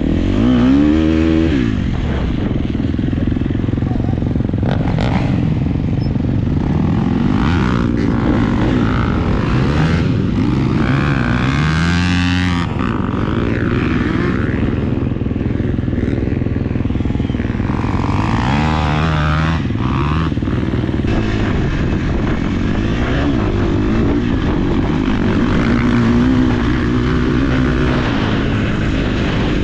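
Four-stroke motocross bike engine, a KTM SX-F 250, ridden hard: the revs climb and drop over and over, with the sharpest rises about a second in, about twelve seconds in and about nineteen seconds in.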